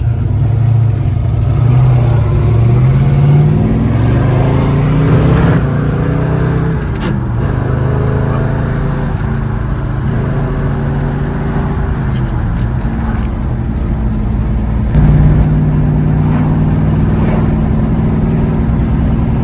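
1968 Chevelle SS's V8 engine driving the car hard: the revs climb for a few seconds, drop back about six seconds in, run steady, then step up sharply in loudness about fifteen seconds in as it accelerates again.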